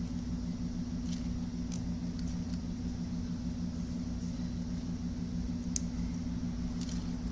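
A steady low electrical hum and rumble of bench or room equipment, with a few faint light clicks from small parts being handled.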